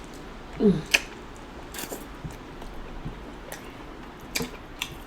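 Wet chewing and lip smacks from a mouthful of sauce-covered king crab meat, with a short hummed "mm" about a second in and scattered sharp smacking clicks.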